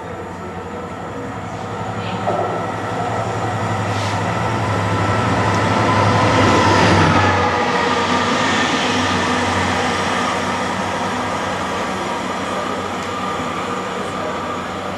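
A train moving through the station, getting louder to its loudest about seven seconds in and then easing off. Its steady tones dip slightly in pitch as it goes by. A couple of short clicks sound early on.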